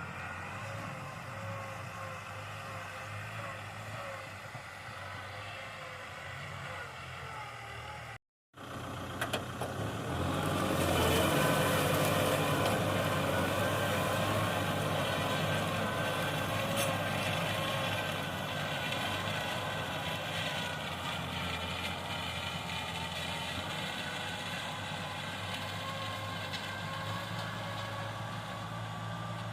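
Kubota tractor's diesel engine running steadily while plowing a field. About eight seconds in the sound cuts out briefly, then comes back louder.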